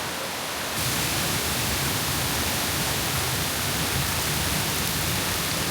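Waterfall's steady rushing noise, growing louder about a second in.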